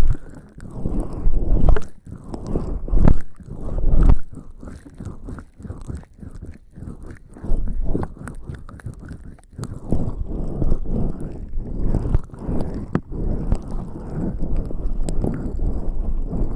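Bare skin slick with lubricating jelly rubbing and pressing against a binaural microphone's ears: close, muffled rubbing in irregular strokes that swell and fade.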